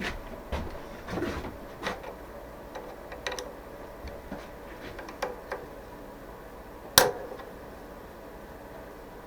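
Scattered clinks and knocks of hand tools and metal parts being handled while a milling machine is being set up, with one sharp, louder knock about seven seconds in.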